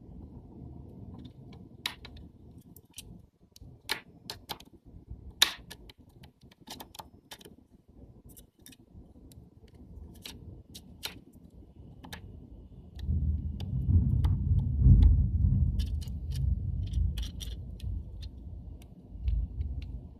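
Small sharp clicks and taps of camera lens parts and tools being handled during disassembly, scattered irregularly. A low rumble runs for several seconds in the second half.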